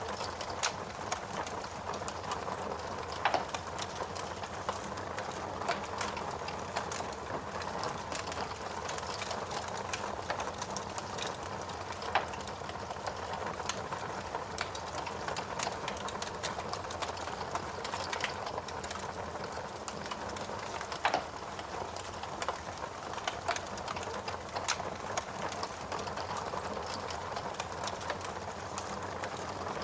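Wood fire burning in a fireplace: a steady hiss full of quick crackles, with a few louder pops scattered through.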